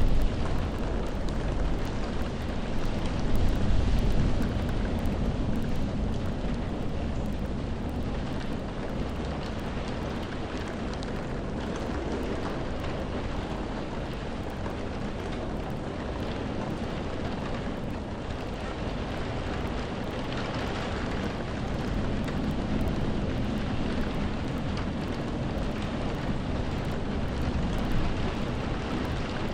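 Steady rain, an even hiss without a beat, with a deeper rumble that swells louder twice in the first few seconds.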